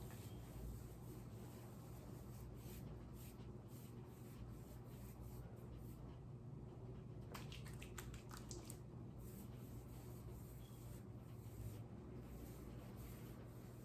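Faint scratching and rustling of a comb working leave-in butter through type 4 natural curly hair, with soft scattered ticks, over a low steady hum.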